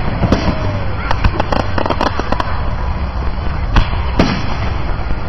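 Fireworks display: a continuous barrage of shell bursts and crackling, with a few louder bangs standing out, the loudest nearly four seconds in.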